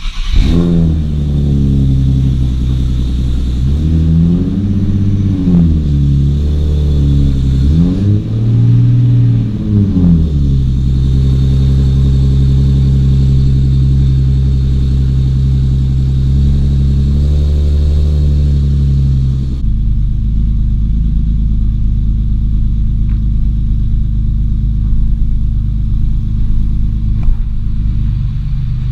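Nissan 370Z Nismo's 3.7-litre V6 through an Invidia Gemini exhaust with high-flow cats, coming to life and idling high, then revved twice, each rev rising and falling, around 4 and 8 seconds in. About 20 seconds in the idle drops abruptly to a lower, steady note.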